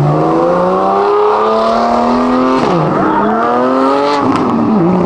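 A car engine accelerating hard past the listener, its revs climbing steadily and dropping sharply at gear changes about two and a half seconds in and again about four seconds in.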